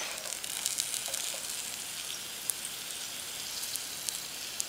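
Bannock with cheese and pepperoni frying in ghee in a small camp frying pan: a steady sizzle with scattered small crackles and pops.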